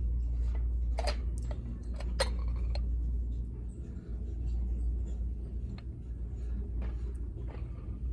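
Handling noise: a few sharp clicks and clinks, the loudest about one and two seconds in, over a steady low rumble.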